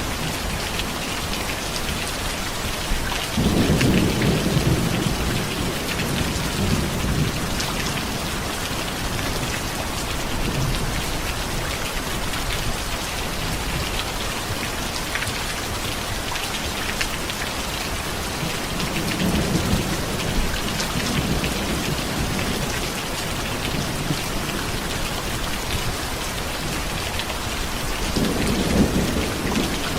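Steady heavy rain pattering on a surface, with rolling thunder rumbling three times: a strong roll a few seconds in, a weaker one around the middle, and another near the end.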